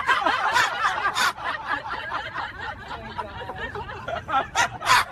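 People snickering and chuckling over a murmur of voices. Near the end it breaks into rhythmic, breathy laughter, about three bursts a second.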